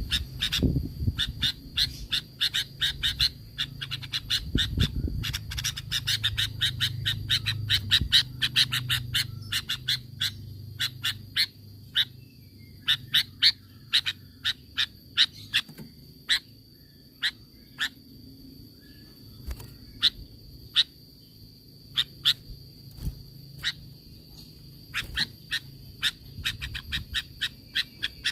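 Sooty-headed bulbul (kutilang) giving rapid 'tembakan' calls: a fast run of short, sharp notes that thins to scattered single notes about halfway through. A steady high tone runs underneath.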